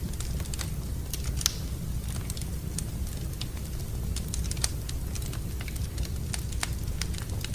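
Wood fire crackling in a fireplace: irregular sharp snaps and pops over a steady low rumble, with two louder pops about one and a half and four and a half seconds in.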